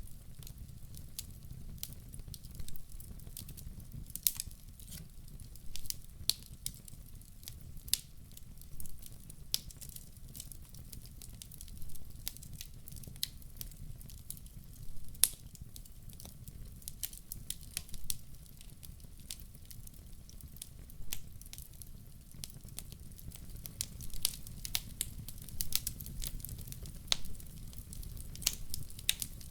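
Wood fire crackling: irregular sharp pops and snaps, sometimes a few a second, over a low steady rumble of the burning fire.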